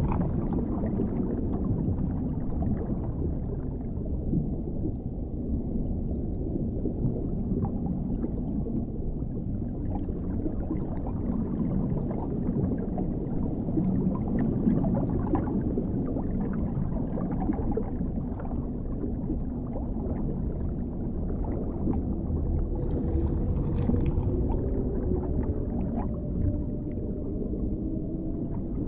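Dark underwater ambience: a steady deep rumble with small scattered clicks and bubbling, and faint long, slowly gliding tones in the last few seconds.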